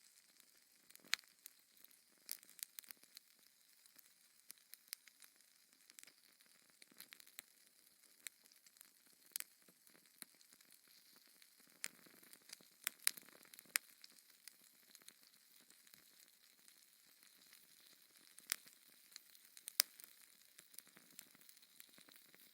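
Wood fire crackling in a fireplace: a faint hiss broken by irregular sharp pops and snaps, several louder pops standing out.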